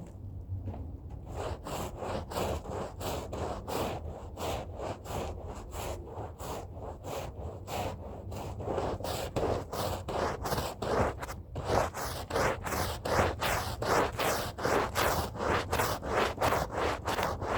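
A hand brush scrubbing a rug in steady back-and-forth strokes, about two to three a second, bristles rasping on the carpet fibres. After a brief pause about eleven seconds in, the strokes come harder and louder.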